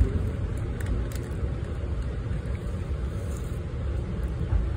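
Steady low rumble of a passenger train running along the track, heard from inside the coach, with a few faint clicks about a second in.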